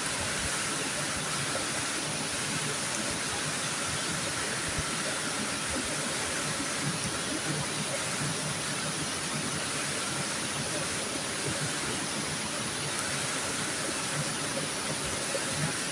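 Steady rushing of a river's flowing water, a constant even hiss.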